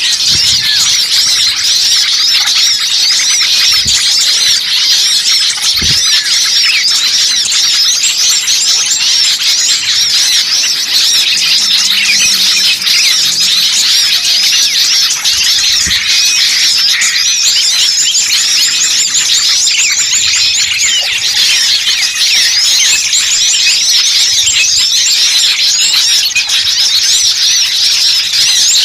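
A dense, unbroken chorus of many small songbirds chirping and twittering at high pitch, mixed together as a bird-trapping lure recording meant to draw wild birds in.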